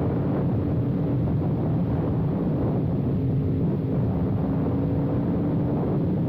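Motorcycle engine running steadily under a constant rumble of wind on the microphone.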